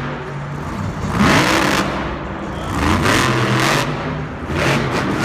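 Monster truck engines revving hard, their pitch climbing and falling several times in quick surges over a loud wash of noise.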